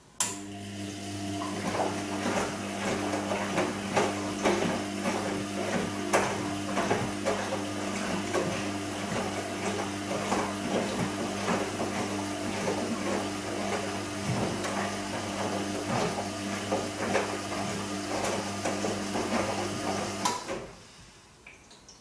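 Bosch Serie 2 Vario Perfect washing machine running a phase of its cycle: a steady electric hum with irregular clicking and crackling over it. It starts abruptly and cuts off abruptly about twenty seconds later.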